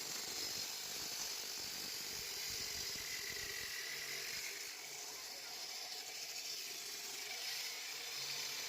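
Electric slab-cutting machine with a 16-inch diamond blade running steadily while it cuts through a concrete roof slab, heard as an even high-pitched hiss.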